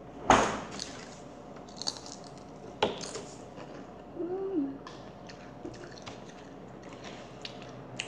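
Close-up chewing of fried puri bread dipped in ketchup, with mouth sounds and small crunches. Two sharp crunches or clicks stand out, the loudest about a third of a second in and another near three seconds.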